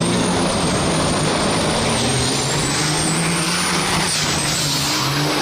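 A powerful engine running steadily at high power, loud and constant, with a thin high whine above it.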